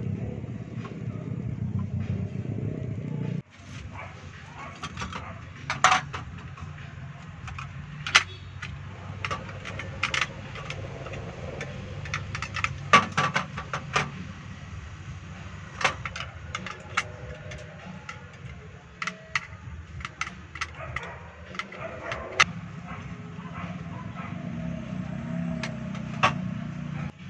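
A motor vehicle engine running steadily, cut off abruptly about three seconds in. It is followed by a long series of scattered sharp clicks and knocks, like gear being handled, over a faint low hum, with the low rumble coming back near the end.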